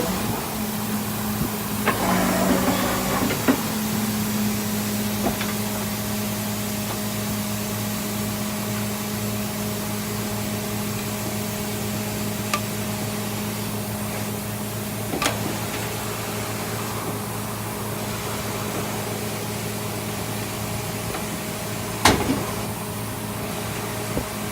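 A vehicle engine running steadily, a constant hum with a faint hiss, broken by a few sharp knocks, the loudest near the end.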